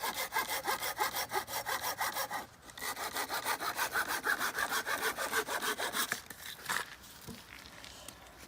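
Hand saw cutting wood with quick, even back-and-forth strokes. There is a brief pause about two and a half seconds in, and the sawing stops about six seconds in, with a single stroke after.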